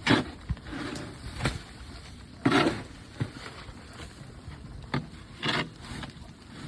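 Snow shovel scraping and scooping heavy snow in a series of separate strokes, the loudest near the start, about two and a half seconds in and about five and a half seconds in.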